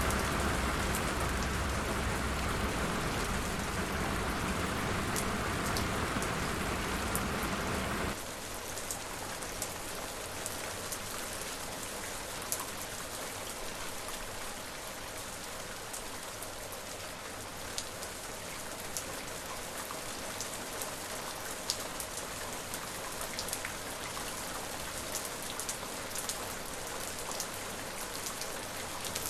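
Steady rain falling, with individual drops ticking. About eight seconds in it switches abruptly to lighter, thinner rain with more distinct drop ticks.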